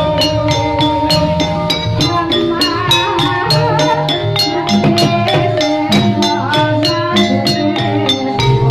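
Javanese gamelan music for ebeg (kuda lumping): a fast, steady beat of about five strikes a second on drums and metallophones, over held ringing tones that move from note to note.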